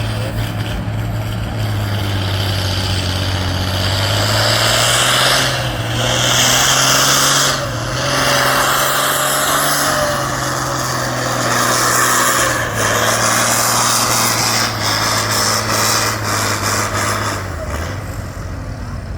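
Pulling tractor's engine working hard under load during a pull, its pitch rising slightly about four seconds in, with a loud rushing noise over it that dips briefly a few times and dies away near the end.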